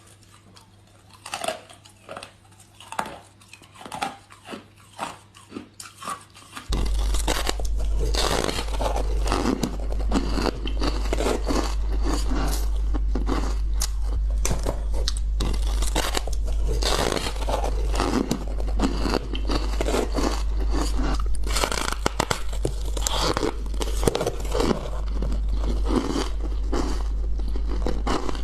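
Ice being bitten and crunched close to the microphone: a few separate crunchy bites with short pauses, then from about seven seconds in, loud, dense, continuous crunching and chewing over a steady low hum.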